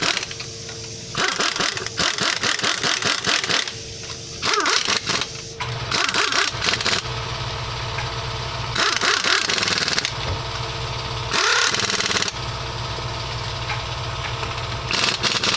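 Bursts of rapid clicking for the first few seconds. Then, about five seconds in, an engine starts and runs steadily at idle, with several louder bursts of noise over it.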